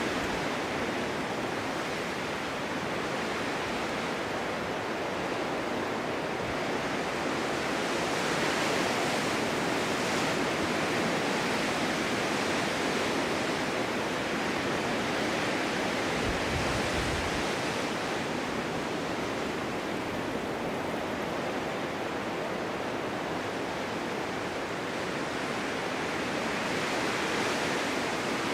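Winter wind blowing steadily in a snowstorm, a continuous rushing that slowly swells and eases, with a low buffet about two-thirds of the way through.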